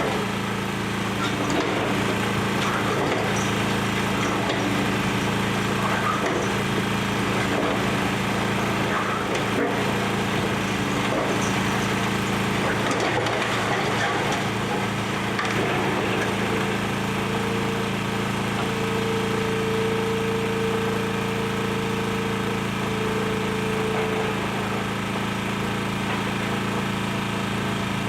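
Excavator's diesel engine running steadily during demolition, with scattered cracking and splintering of debris as the building is torn apart. A steady higher whine joins in for several seconds in the second half.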